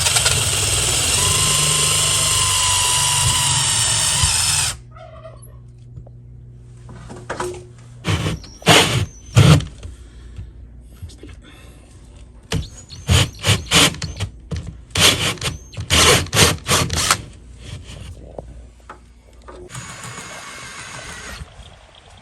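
Cordless drill boring an angled hole through a wood-framed house wall for a mini-split line set, running steadily with a high whine for about four and a half seconds before stopping suddenly. Then comes a string of sharp knocks, and near the end the drill runs again briefly and more quietly.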